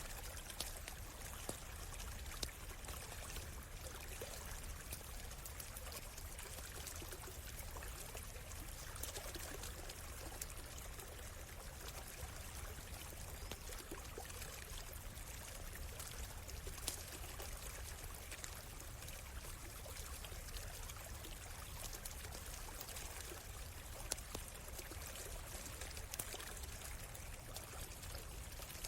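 Stream trickling steadily, with now and then a sharp pop from a crackling campfire.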